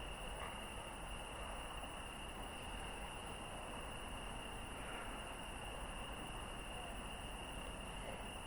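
Steady night-time outdoor background noise with a constant high-pitched tone running through it.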